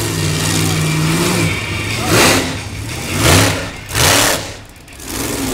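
Monster truck engine running steadily, then revved in three loud, short bursts about a second apart.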